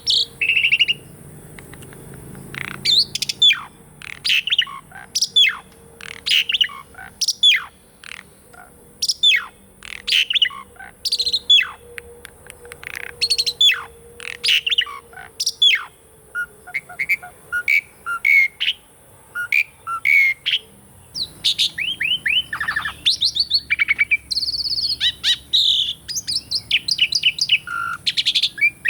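Pied starling (jalak suren) singing: a series of loud, sharp, downward-sweeping whistles about one a second for the first half, then a busier run of short chirps and warbled notes that grows denser near the end.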